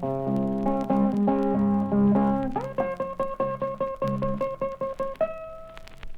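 Blues guitar playing alone without vocals: picked treble lines over bass notes, then a run of quickly repeated picked notes, and a single note left ringing near the end.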